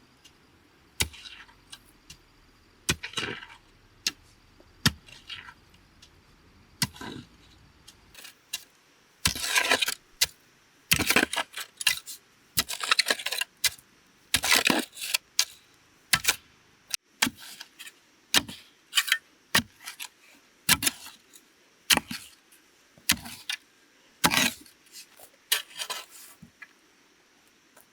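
Bamboo being worked by hand: irregular sharp knocks and cracks, some with a brief rattling clatter, sparse in the first seconds and coming thick and fast from about nine seconds in.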